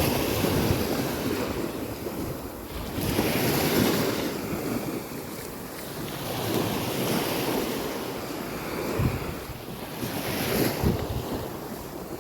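Sea waves breaking and washing up a beach, surging about every three seconds, with wind buffeting the microphone.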